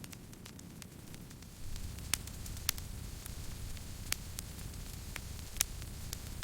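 Wood campfire crackling, with irregular small snaps and a few louder pops over a low steady rumble of the burning fire that grows louder a little under two seconds in.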